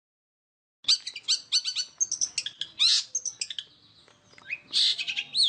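Long-tailed shrike (cendet) singing a fast, densely packed song of rapid chattering notes mixed with short slurred whistles that rise and fall. It starts abruptly about a second in.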